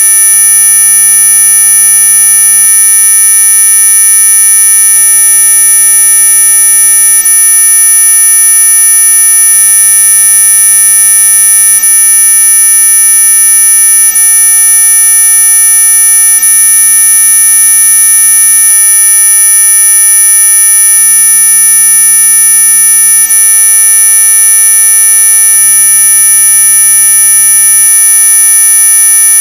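Steady, high-pitched electronic mosquito-repellent tone, several pure tones layered together and held unchanging, the loudest very high in pitch.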